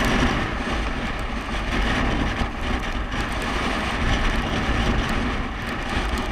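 Wind rushing over the microphone during a bicycle ride, a steady noisy rush with uneven low buffeting.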